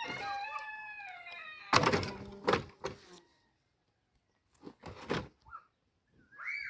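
A rooster's crow trailing off, falling in pitch over the first second, followed by a few sharp knocks.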